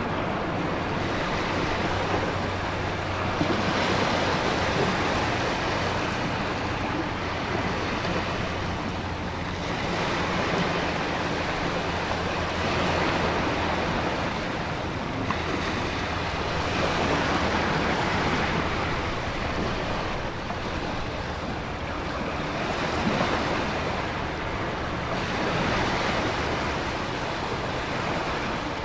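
Stormy ocean surf with wind: a continuous rush of water that swells and eases every few seconds as waves break.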